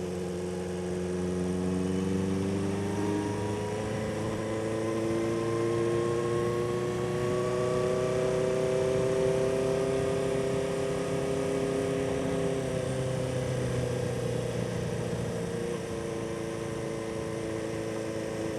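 A 1976 Honda 400/4's inline-four engine running at low revs while the motorcycle is ridden slowly, its pitch rising gradually for several seconds, then dropping about two-thirds of the way through and holding steady.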